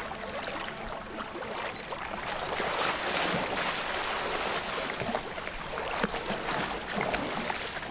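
Water splashing and churning as crocodiles thrash and tear at a drowned carcass in a river, with many sharp splashes through a steady wash of water noise.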